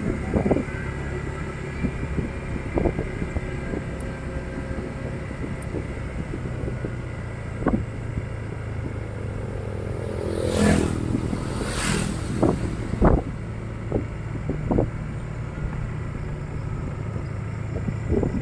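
Motorcycle engine running steadily at low revs, with scattered sharp knocks and clatters. A louder rushing noise comes through about ten to twelve seconds in.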